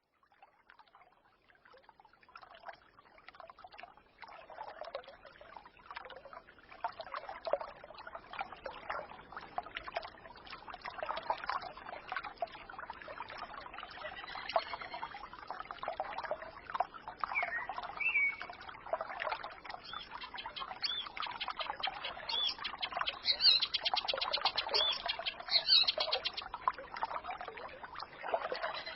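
Forest stream babbling, fading in from silence over the first few seconds, with songbirds chirping over it. A short rising call comes about eighteen seconds in, and a rapid high trill comes about twenty-three to twenty-six seconds in.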